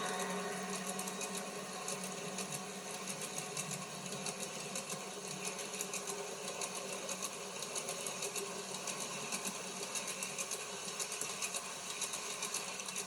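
A train running on its track, a rapid, steady clicking and clatter that carries on throughout.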